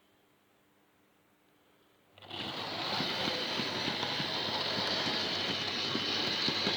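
Quiet at first; about two seconds in, a model railway locomotive starts running, its small electric motor and wheels making a steady mechanical rattle and hum on the track.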